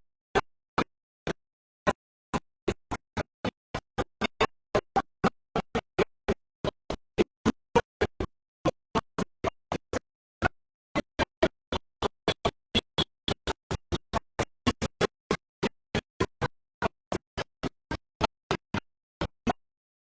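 A broken audio track made of short blips about three a second with silence between them: the sound cuts in and out in rapid fragments instead of playing continuously.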